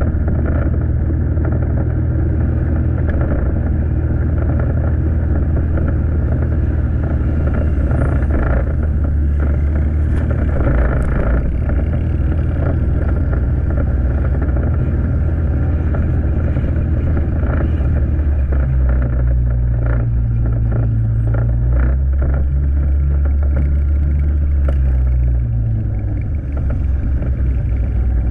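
Motorcycle engine running under way, with road and wind noise. Its note shifts higher about two-thirds of the way through, then drops back with a brief dip near the end, as the throttle is eased.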